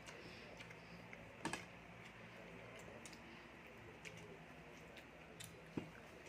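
Faint eating noises from a seafood meal: small scattered clicks and ticks, with two sharper clicks, one about a second and a half in and one near the end.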